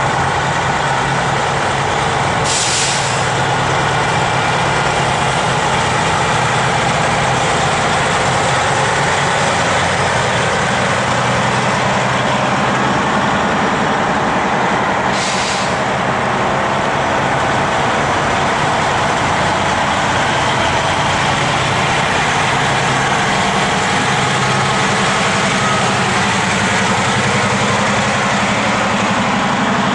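Heavy truck diesel engines running steadily, with two short air-brake hisses, one a few seconds in and another about halfway through.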